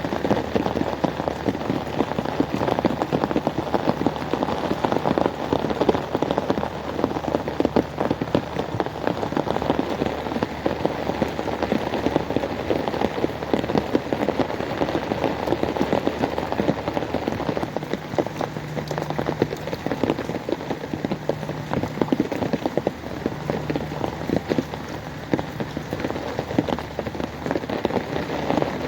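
Rain falling steadily, a dense, unbroken spatter of drops striking surfaces.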